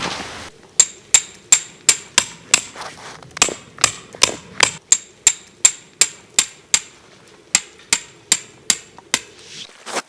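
Hammer blows in a steady rhythm, about two and a half sharp strikes a second, each with a bright metallic ring. They start about a second in and keep going almost to the end.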